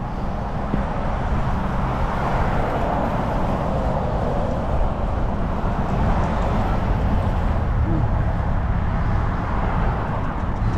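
Steady wind rumble on an action camera's microphone, with road noise, while a bicycle is ridden uphill; the noise swells in the middle and eases again.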